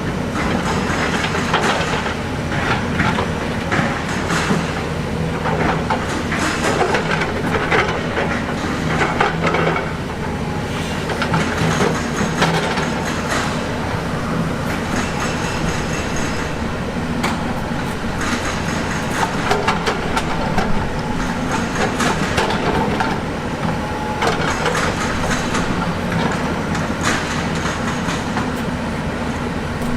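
Diesel engine of heavy earthmoving machinery running steadily, with frequent metallic clanks and knocks of rock and steel throughout.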